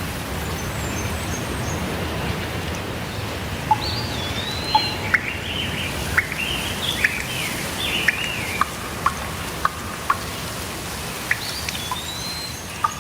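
Steady rainfall with birds chirping and whistling over it from about four seconds in, in short gliding calls, mixed with sharp drip-like ticks.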